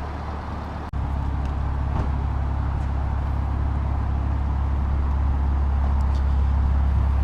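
Car engine running steadily with a low, even rumble. It cuts out briefly about a second in, then comes back a little louder.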